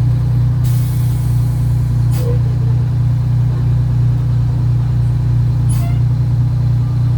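Antique fire truck's engine running steadily at low speed, heard from inside the cab as a constant low hum. A brief hiss about a second in.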